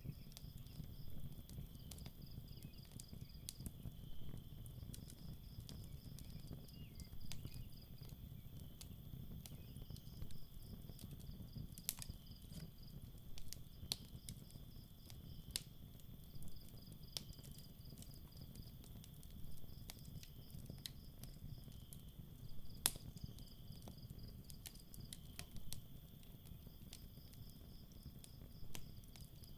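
Campfire crackling with scattered sharp pops, the loudest about a third and three quarters of the way through. Underneath are night insects: a steady high trill and a higher pulsed chirping that comes in trains of about a second with short gaps. A low rumble runs beneath it all.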